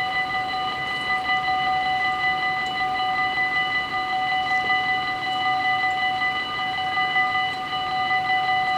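Dutch level-crossing warning bells ringing without a break, a steady ringing with several pitches held together.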